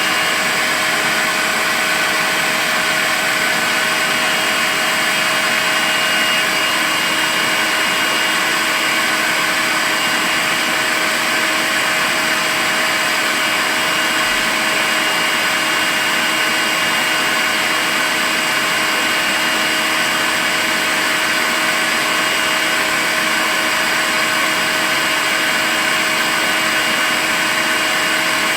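Makita cordless vacuum cleaner running steadily: an even hiss with a few constant whining tones over it and no change in speed.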